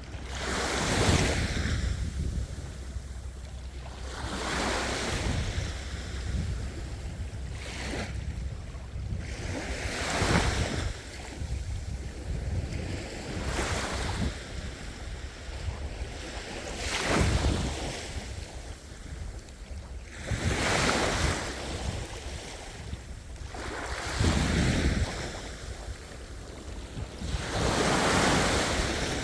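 Sea waves breaking and washing in, swelling to a surge about every three to four seconds over a steady low rumble.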